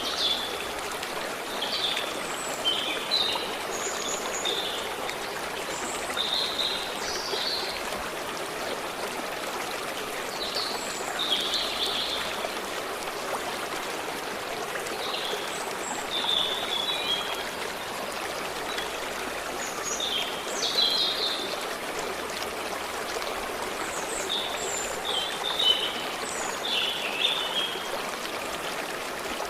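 Water running steadily, with birds chirping in short clusters of high calls every few seconds over it.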